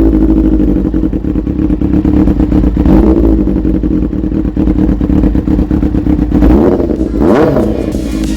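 2001 Kawasaki ZX-6R's inline-four engine running with no exhaust end can fitted, loud through the open pipe. The revs rise and fall briefly about three seconds in and again near the end.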